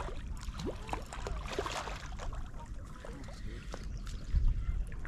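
Water splashing and sloshing at the river's edge, with short clicks and handling noises, as hooked white bass are brought in to the bank. A loud low bump about four and a half seconds in.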